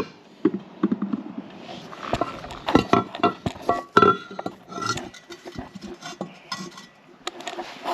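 Two turbochargers being turned over by hand: a string of metal clanks and clinks, some with a short metallic ring, as the housings knock against each other and the floor.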